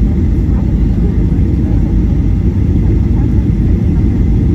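Steady roar of a Boeing 737-800's CFM56 engines and airflow heard from inside the passenger cabin, with no sudden thumps or changes.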